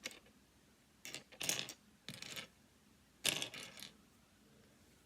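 Small plastic pieces of a disassembled 7x7 puzzle cube clicking and rattling as they are handled and fitted, in three short bursts of clatter.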